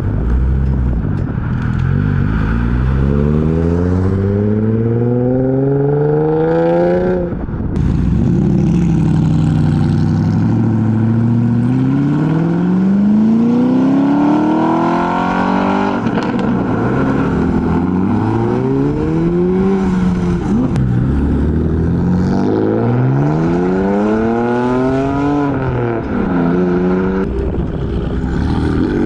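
Modified car engines accelerating hard, the engine pitch climbing in several long pulls and dropping back sharply between them.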